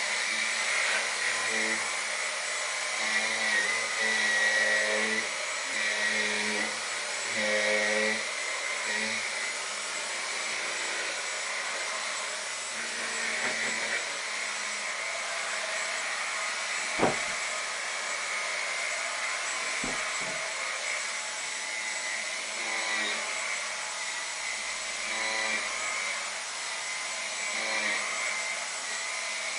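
Dyson V10 Animal cordless vacuum running with its turbine brush attachment over a sofa, a steady whine that shifts as the tool is worked across the fabric. A sharp click about 17 seconds in, and fainter ones about 20 seconds in.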